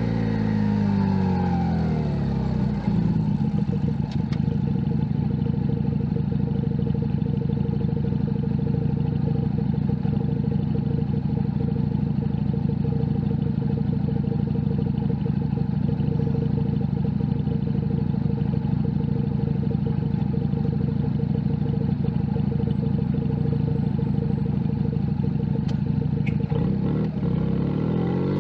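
Junak M11 Cafe's 125cc single-cylinder engine dropping in revs over the first couple of seconds and settling to a steady idle for over twenty seconds, then revving up again near the end. A few faint clicks come in during the idle.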